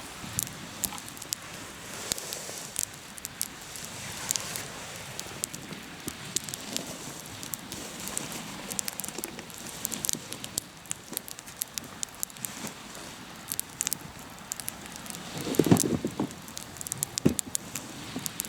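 Hardwood campfire crackling and popping with many scattered sharp snaps, and a louder knock about three-quarters of the way through.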